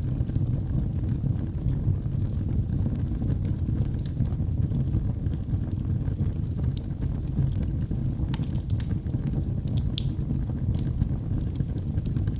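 Wood fire burning in a fireplace: a steady low rumble of the flames with scattered sharp crackles and pops, a few louder ones about eight to ten seconds in.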